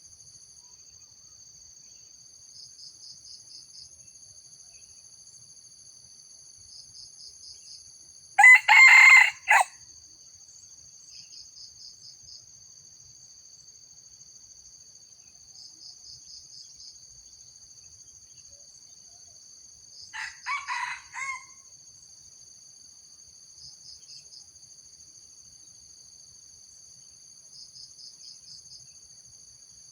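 Junglefowl roosters crowing: one loud, short, clipped crow about 8 seconds in and a fainter crow about 20 seconds in. Under them, a steady high-pitched insect drone with short bursts of chirps every few seconds.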